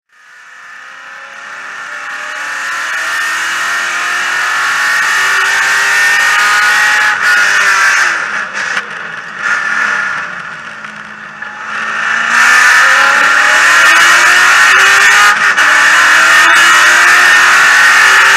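Corvette race car's V8 heard from inside the cabin, fading in and pulling hard with the revs rising. About eight seconds in it goes quieter with the revs falling, then it is back at full throttle and loud from about twelve seconds in.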